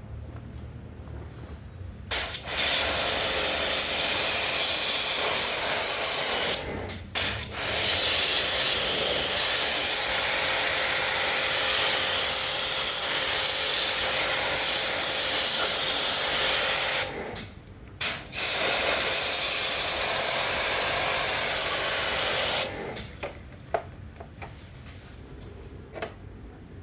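High-pressure water spray from a small pressure washer, with its pump humming under the hiss. It runs in three long bursts, cutting off briefly twice when the trigger is let go, and stops a few seconds before the end.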